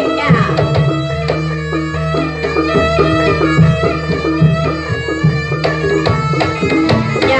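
Live Javanese jaranan (kuda lumping) ensemble music: hand drums beating a busy rhythm over ringing, sustained tones from gongs and gong-chimes.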